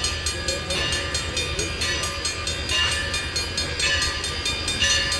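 Steam-hauled passenger train behind a Baldwin 2-8-2 locomotive rolling slowly past. It makes a steady low rumble, with a brighter swell in the sound about once a second.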